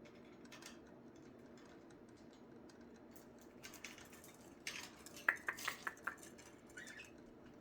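Scattered light clicks and taps, thickest in the middle stretch, with a few faint short budgie chirps among them.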